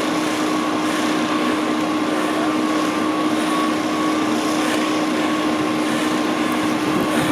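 Fire engine running steadily at the scene: an even engine drone with a constant two-pitch hum over a steady rushing noise.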